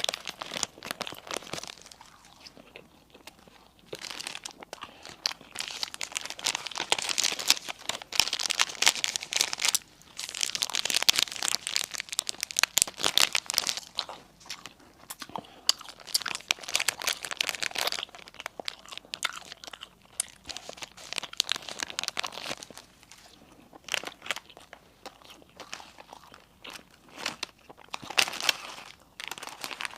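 A person biting into and chewing crispy bread close to the microphone, crunching in bursts of a few seconds with short quieter pauses between.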